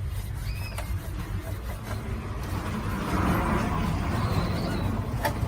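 A passing road vehicle, its noise swelling to a peak about halfway through and fading, over a steady low rumble. Birds chirp briefly at the start, and there is a sharp click near the end.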